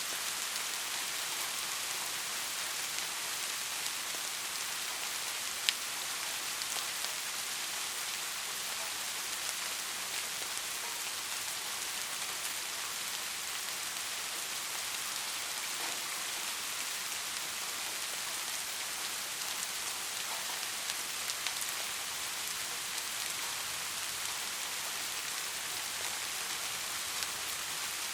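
Steady rain falling on a hard surface, an even hiss with scattered individual drop ticks, one sharper tick about six seconds in.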